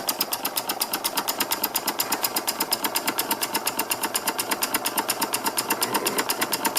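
Stuart No.8 model mill engine running steadily on compressed air, a rapid, even exhaust chuff of about ten beats a second.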